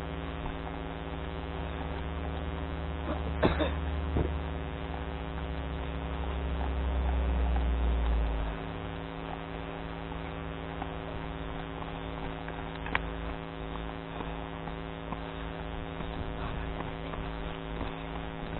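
Steady engine drone with a deep rumble that drops away about eight and a half seconds in, and a few sharp knocks.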